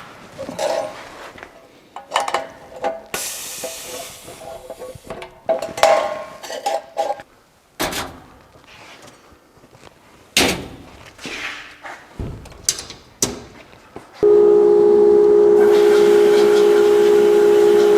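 Metal parts knocked and clanked about while a sandblast setup is readied, then a machine switches on suddenly with a loud steady hum about fourteen seconds in, and a strong air hiss of sandblasting joins it a second or two later.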